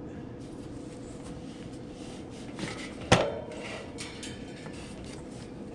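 A single sharp knock about three seconds in, with light clicks and rattles of metal parts being handled while a condenser fan motor is worked into place, over a steady low hum.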